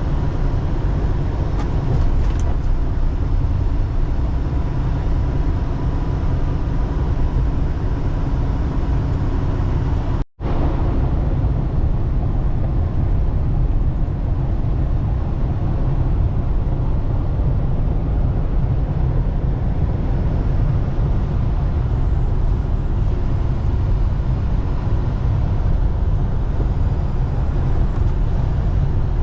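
Steady road and engine noise from a vehicle driving, heard from inside, heaviest in the low rumble. The sound cuts out for an instant about ten seconds in.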